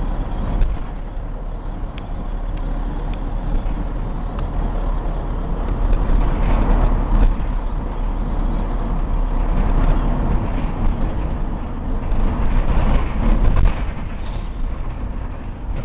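1994 Chevy box truck driving on the road: its 5.7-litre V8 running with steady road and tyre rumble, and a few short knocks and rattles.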